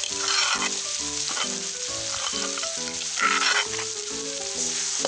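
Chopped fermented fish paste (pla ra) sizzling in a little oil as it is stir-fried in a wok, with louder bursts a little after the start and about three seconds in. Background music of short, stepping notes plays under it.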